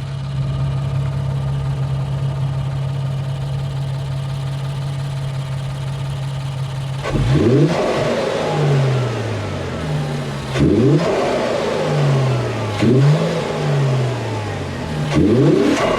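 Infiniti Q50's 3.0 twin-turbo V6 idling steadily, then revved sharply in neutral four times, each rev dropping back toward idle, heard from the front through aftermarket AEM cold-air intakes.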